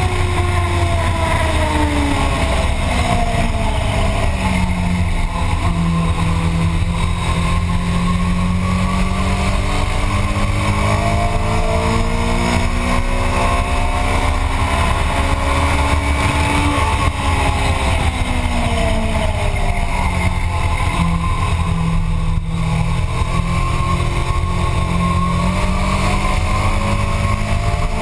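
Motorcycle engine at speed on a race track, its pitch falling as it slows and rising as it accelerates, twice over, above a steady low rumble.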